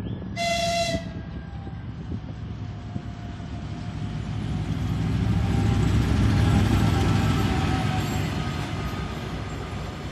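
M62 diesel locomotive with its two-stroke V12 diesel engine: a short, high-pitched signal blast about half a second in, then the engine grows louder to a peak about six seconds in and fades as the locomotive passes by.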